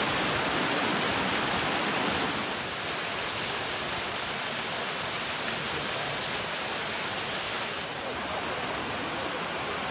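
Rushing water of a mountain waterfall and its creek, a steady even rush that drops slightly in level about two seconds in.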